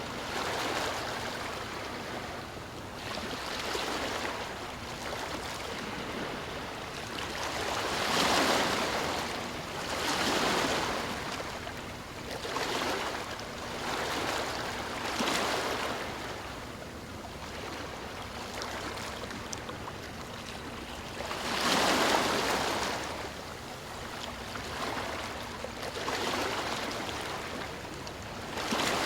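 Sea waves washing in one after another, each swell of surf rising and falling over a couple of seconds, with two louder breakers about 8 and 22 seconds in.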